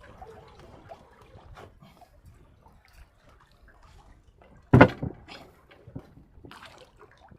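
Faint knocking and water sounds on a small fishing boat, with one loud thump about five seconds in, followed by a couple of lighter knocks.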